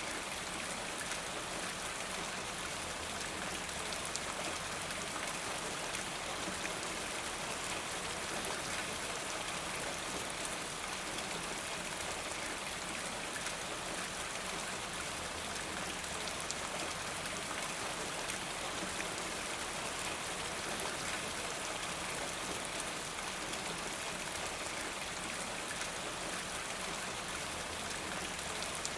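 Steady rain falling, an even hiss of many fine drops that neither builds nor fades.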